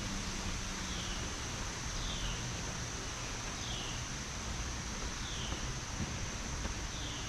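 Outdoor ambience: a bird's short falling call repeated about every one and a half seconds, over a steady high hum and a low, even hiss.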